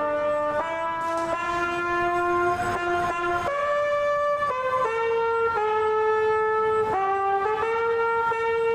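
A musical air horn playing a tune: two or three horn tones sounding together, stepping to new notes every half second to a second.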